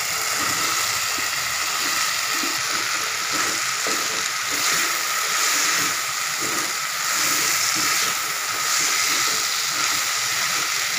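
Rice, potato and cauliflower sizzling in hot oil in a metal pan, stirred with a wooden spatula that scrapes and knocks against the pan in short irregular strokes.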